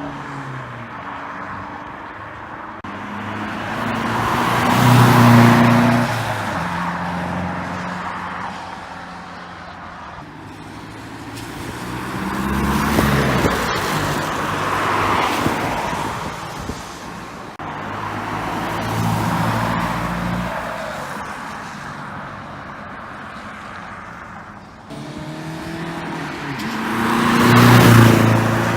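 Straight-piped four-cylinder turbodiesel of a Vauxhall Vectra C 1.9 CDTi 150, a 3-inch straight-through exhaust from the pre-cat back, running and accelerating. The engine note swells and fades several times, loudest about 5 seconds in and again near the end.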